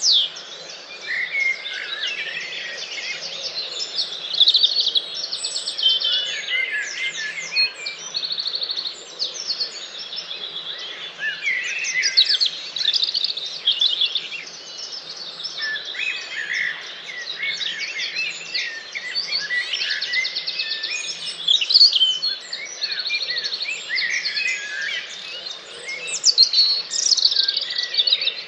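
Dawn chorus: many songbirds singing at once, their songs and rapid trills overlapping without a break.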